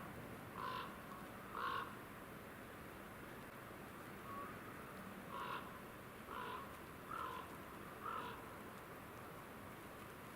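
Bird calling: six short, harsh calls, two in the first two seconds, then after a pause four more about a second apart.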